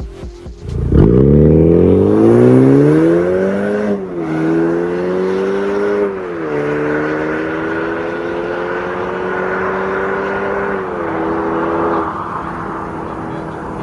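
BMW 530i's B48 turbocharged four-cylinder through an MS-R valved cat-back exhaust, accelerating hard: the engine note climbs steeply, dips with upshifts about 4 and 6.5 seconds in, climbs more slowly, then drops to a steady lower note near the end.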